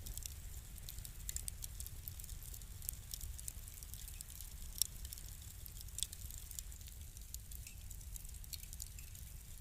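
Crackling fire: a dense, irregular run of small crackles and pops over a low, steady rumble, with two louder pops a second apart near the middle.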